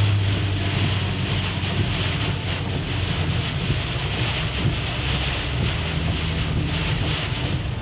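Car cabin noise while driving: a steady low drone of engine and tyres under a hiss of road and wind noise. The low drone is strongest for the first second or so, then eases.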